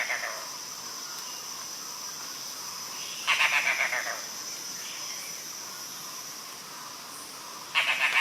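A bird singing a short, fast series of notes that falls in pitch, repeated twice about four seconds apart, over a steady high insect drone.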